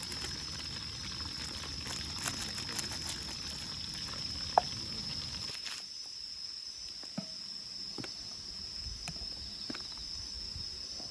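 Night insects chirring in a steady, high, unbroken drone, with scattered sharp pops and crackles from a campfire. A low background rush drops away about halfway through.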